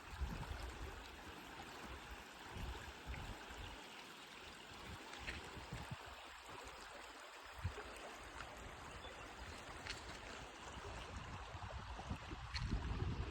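Creek water flowing steadily, with low rumbles coming and going, heavier near the end.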